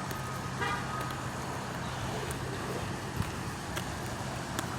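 Steady low rumble of road traffic with a constant low hum, and a few faint clicks.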